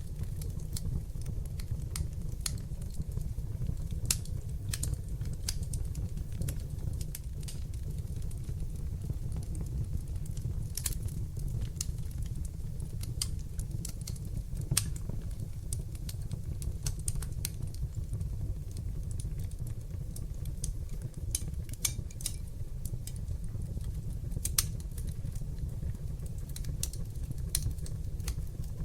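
Wood fire burning in a fireplace: a steady low rumble from the flames with irregular sharp crackles and pops, a louder pop about halfway through and another near the end.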